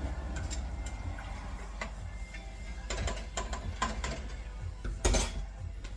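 Cooking utensils clicking and clattering against a pot or pan, irregular light knocks with a louder knock about five seconds in, over a steady low hum.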